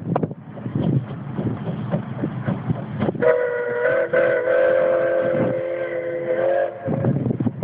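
Steam locomotive whistle blowing one long blast of about four seconds, starting about three seconds in: a chord of several steady pitches sounding together. Before and after it there is a gusty low rumble with wind on the microphone.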